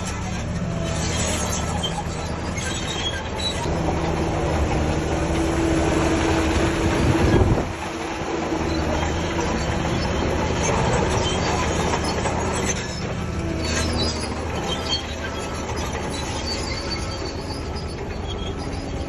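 Shantui DH17C3 crawler bulldozer running under load, its steel tracks squealing and clanking. The engine swells to a peak and drops away sharply about seven and a half seconds in, then carries on steadily.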